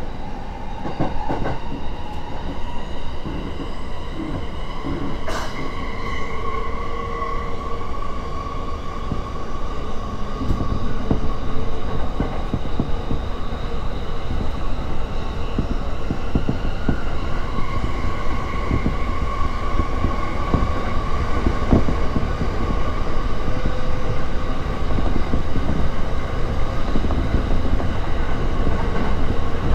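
JR East E231 series electric commuter train running after pulling out of a station, heard from inside the carriage: a steady low rumble with scattered clicks of the wheels over rail joints. Steady motor tones rise and fade twice, and the overall sound grows slowly louder as the train gathers speed.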